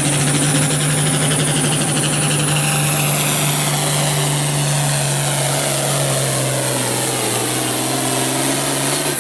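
Farm-stock diesel pulling tractor running flat out under load as it drags the weight-transfer sled, a steady heavy engine note with a high turbo whistle that climbs slowly. Near the end the throttle comes off and the engine note drops away as the pull ends.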